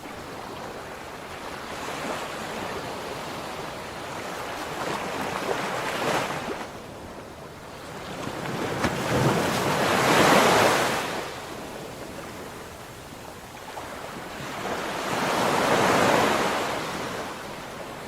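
Sea waves washing in, surf swelling and falling away three times, roughly every five seconds, with some wind on the microphone.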